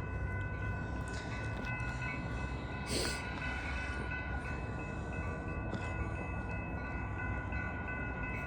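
Commuter train running with a steady low rumble and several steady high tones held throughout, with a short hiss about three seconds in.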